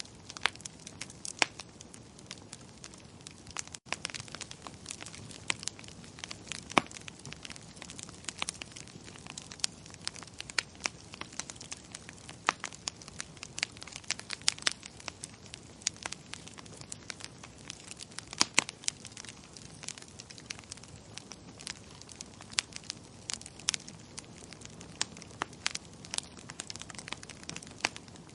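Wood fire crackling in a fireplace: irregular sharp pops and snaps over a soft steady hiss, with a momentary drop-out about four seconds in.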